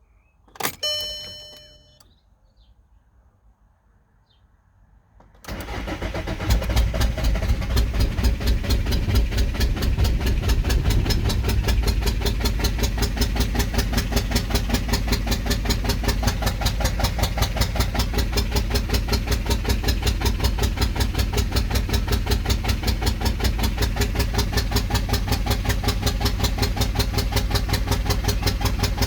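A short electronic beep about a second in, then a few seconds of quiet, then a starter motor cranking a VW 1.9 TDI pumpe-düse (BXE) diesel with an even, rapid rhythm for over twenty seconds without the engine catching. This is a no-start after a cylinder head and camshaft replacement, with no ECU fault codes; the exhaust is disconnected from the turbo.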